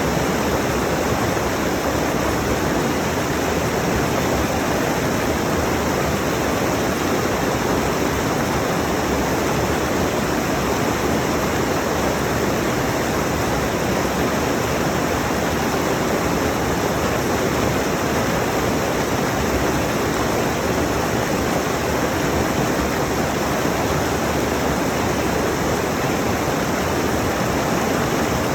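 Rushing mountain stream: a steady, even roar of water running over rocks.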